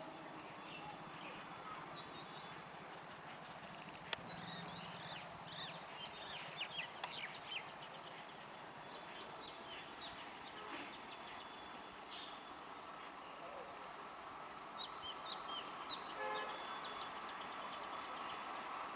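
Birds chirping in short, quick calls over a quiet outdoor background. A steady hiss grows louder near the end: the first sound of an approaching train.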